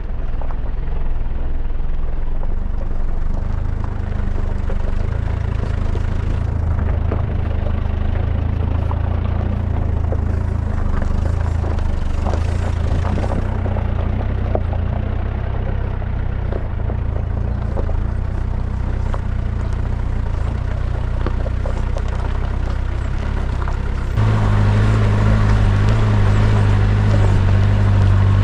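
Isuzu Trooper 4x4 engine pulling steadily up a loose, rough lane, heard from inside the cab, with the rattle and clatter of the truck bouncing over stones. About four seconds before the end the engine gets louder as it works harder.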